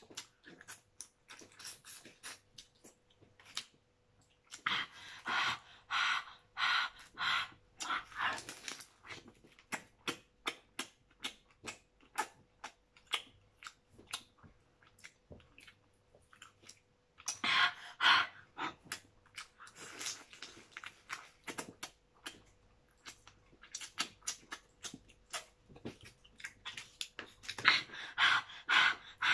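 Close-up mukbang eating of cooked crab: open-mouthed chewing and lip smacking, with many sharp clicks and cracks of crab shell being broken and picked apart by hand. There are three louder spells of noisy eating, about five, eighteen and twenty-eight seconds in.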